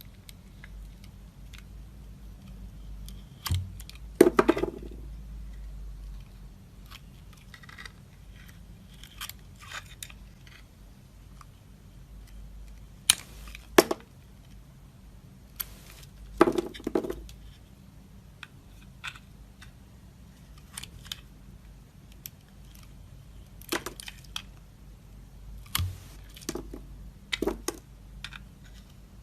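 Knife cutting into dry soap: scattered sharp cuts and short crunches, the loudest a few seconds in and again around the middle, with softer taps and scrapes between.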